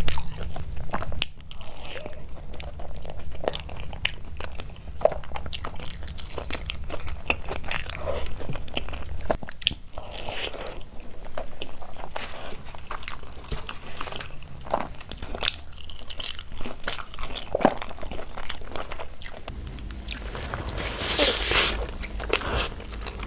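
Close-miked eating of dal and rice: chewing and biting with crunches and wet mouth clicks, and a louder noisy burst near the end.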